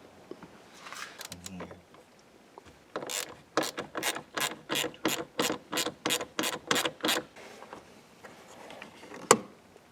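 Hand ratchet wrench being worked back and forth on a bolt, its pawl clicking in a steady rhythm of about three strokes a second for about four seconds. A single sharp click follows near the end.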